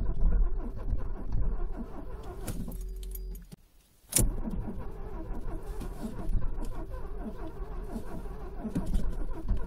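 Stock car's V8 engine running at idle with a deep, uneven rumble. The sound drops out briefly about three and a half seconds in. A sharp click follows, and the engine carries on somewhat quieter.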